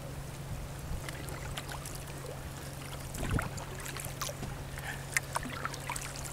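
Kayak paddling: paddle blades dipping and splashing with scattered small knocks and drips, a stronger splash about three seconds in, over a steady low hum.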